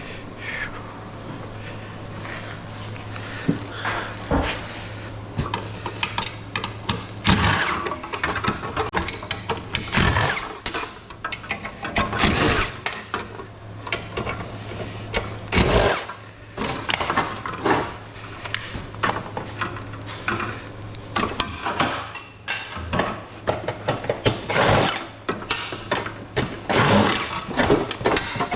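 Irregular clanking and knocking of scrap metal parts being handled and pried apart, with several louder strikes, over a steady low hum.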